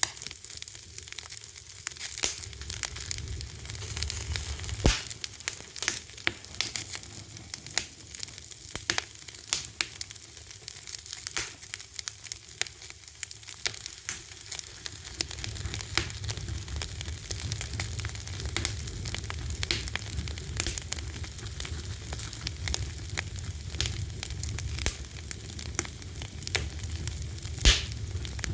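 Fire crackling: a steady hiss with many sharp pops and snaps, two of them louder, one about five seconds in and one near the end. A low rumble comes in about halfway through.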